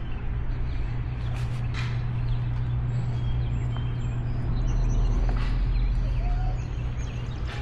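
Motorcycle engine running steadily as it rides, with road and wind noise, getting a little louder about halfway through. Faint high chirps sound over it now and then.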